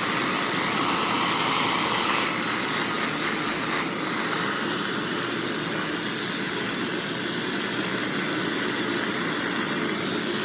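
Hoover SteamVac SpinScrub carpet cleaner running and scrubbing carpet: a steady, loud motor whir with the hiss of the brushes. The high hiss eases a little about two seconds in.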